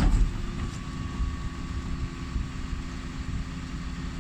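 Dennis Elite 6 bin lorry's diesel engine running steadily with a continuous hum.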